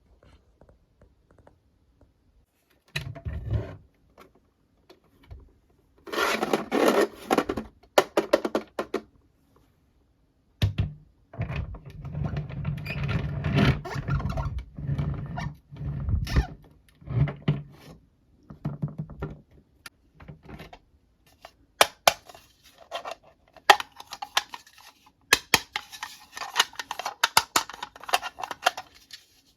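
Plastic toy pieces being handled: irregular knocks, clicks and scraping as parts are moved and pulled about, in clusters with short pauses between.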